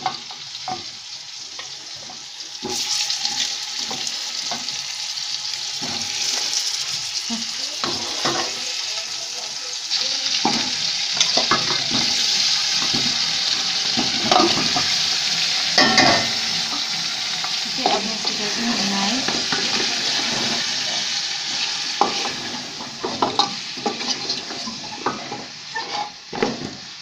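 Beef trotters sizzling as they fry in hot oil with browned onions in a metal pot, stirred with a wooden spoon that knocks and scrapes against the pot now and then. The sizzle grows louder about three seconds in and again about ten seconds in.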